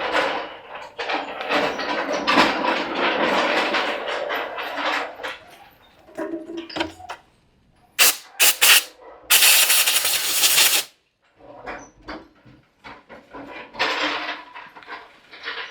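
Handling and rustling noises with scattered clicks, broken by one loud, even burst of hiss lasting about a second and a half, like compressed air or an aerosol spray, about nine seconds in.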